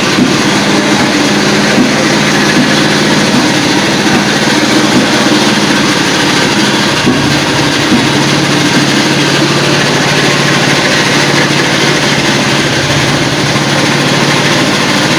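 An engine running steadily, a constant loud hum with no change in speed.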